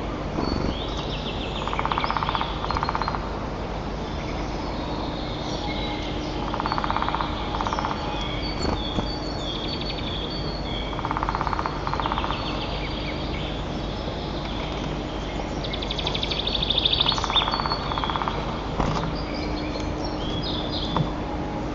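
Wild birds singing around the nest: high chirping songs go on throughout, and about four times a rapid rattling trill of a second or so comes every four to five seconds, over a steady low hum.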